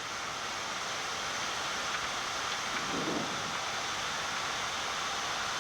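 Steady rushing hiss inside a Boeing 787 flight deck in flight, the air flowing past the nose and the air-conditioning blowing.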